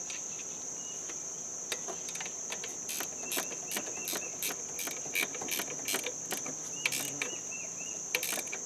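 A ratchet wrench clicking in a steady rhythm, about two to three clicks a second, as it tightens the belt adjuster bolt so the new alternator belt is snug. A steady, high-pitched insect drone runs underneath throughout.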